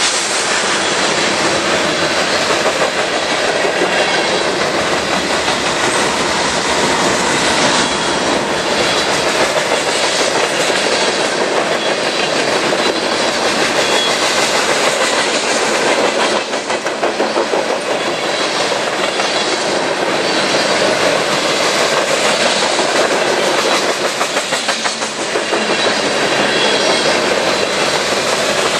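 Railroad cars rolling past at close range, the wheels clicking rhythmically over rail joints in a steady, loud rumble.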